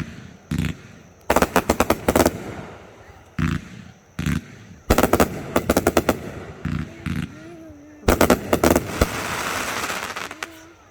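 Fireworks going off in quick strings of sharp bangs, several rapid volleys a second or so apart, with a long crackling hiss after the last volley near the end.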